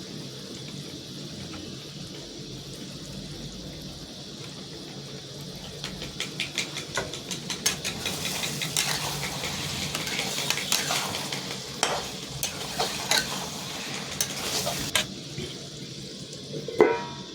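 Food frying with a steady sizzle in a pot. From about six seconds in, a spoon stirring and scraping in the pot adds a run of sharp clicks, which eases off near the end.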